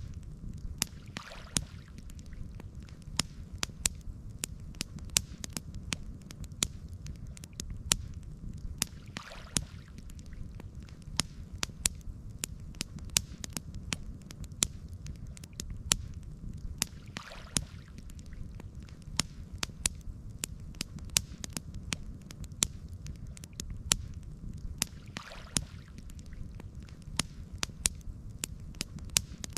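Campfire crackling, with frequent sharp pops over a steady low rumble. A faint soft whoosh recurs about every eight seconds.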